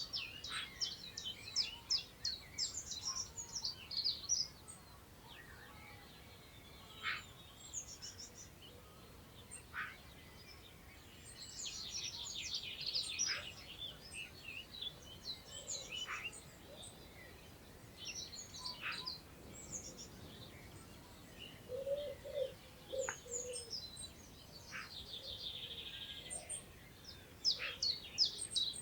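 Several songbirds singing and calling, with quick, high chirping phrases coming in bursts and some sharp falling notes. A faint, steady hiss of wind through long grass lies underneath.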